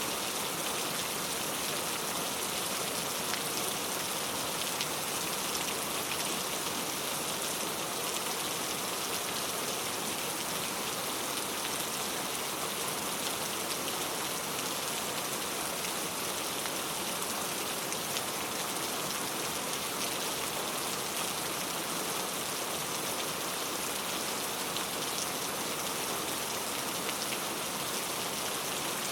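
Heavy rain falling steadily: an even hiss with many fine drop ticks that does not change.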